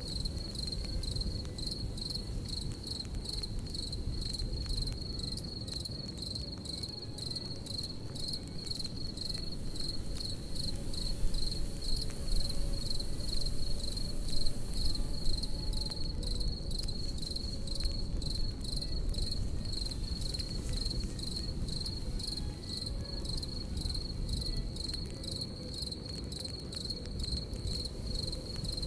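Crickets chirping in an even, pulsing chorus over the low rush and crackle of a campfire, a little louder for a few seconds near the middle.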